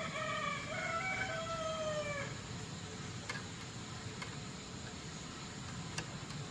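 A rooster crowing once, a drawn-out crow in a few segments ending on a long held note, over a steady low background hum. A few faint clicks follow.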